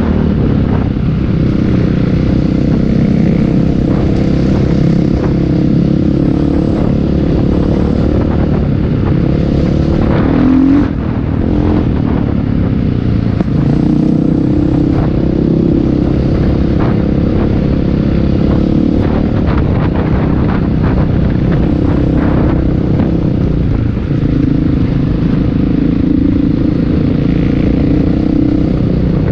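Motocross motorcycle engines running loudly and continuously, their engine note shifting up and down with the throttle.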